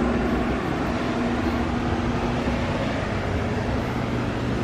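Steady background hum with an even hiss, like machinery or ventilation running in a workshop, holding level with no sudden events.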